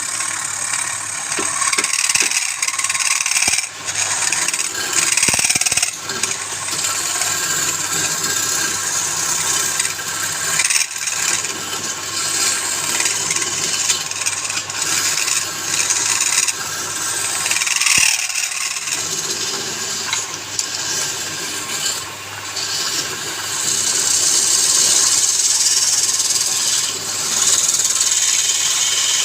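Wood lathe running with a steady motor hum while a tool scrapes and cuts the spinning wood, a continuous rough rasping that swells and eases, louder near the end.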